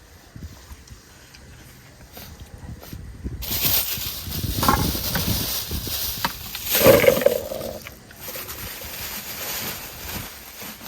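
Close-miked eating sounds: noisy crunching and chewing of papaya salad that starts a few seconds in and fades out near the end, with a short hum-like mouth sound at the loudest point.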